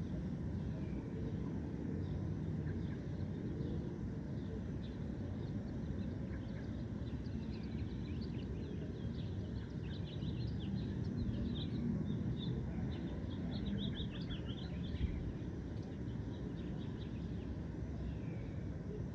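Small birds chirping and twittering in quick, short high notes, busiest in the middle stretch, over a steady low background rumble.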